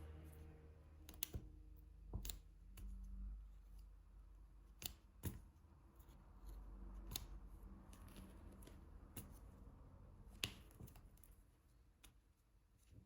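Irregular small clicks and taps from diamond painting: a drill pen picking up resin drills and pressing them onto the adhesive canvas, about a dozen scattered across the stretch, over a steady low hum.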